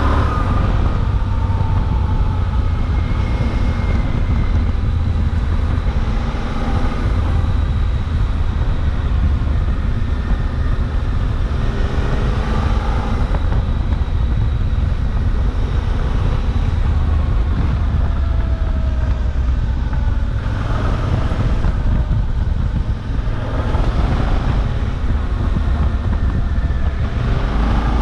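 Suzuki V-Strom 800DE's 776 cc parallel-twin engine running steadily under way, its pitch shifting a little now and then, mixed with wind and road noise on the microphone.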